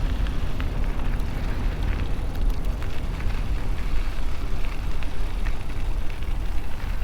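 Riding noise from an MS2 Dual Sport Ultra e-bike on a trail: wind buffeting the handlebar-mounted microphone and tyre rumble, with scattered small clicks and rattles from the bike.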